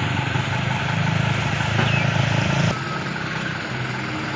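Mitsubishi Fuso Canter dump truck's diesel engine running steadily. About two and a half seconds in it drops suddenly to a quieter, lower-pitched run.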